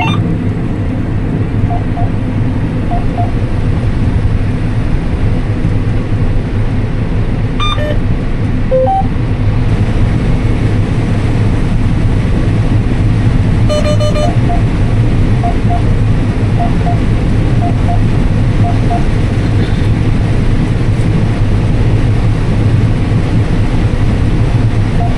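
Combine harvester running steadily while harvesting dry corn, a constant low drone heard from inside the cab. Short electronic beeps come over it several times, mostly in pairs.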